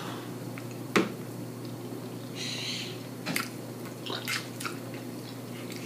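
A person chewing a mouthful of food with wet, open-mouth smacking, with a sharp click about a second in and several smaller clicks later on.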